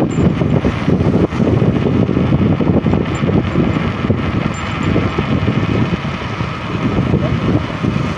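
Loud, steady road and vehicle noise: a rough, low rumble with no clear engine tone.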